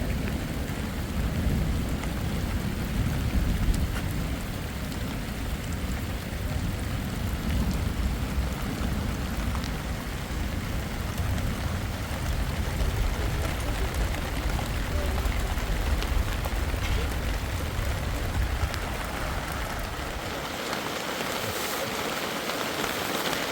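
Heavy rain falling steadily, with a low rumble under it for most of the stretch. About three seconds before the end the rumble drops away and the hiss of the rain grows louder.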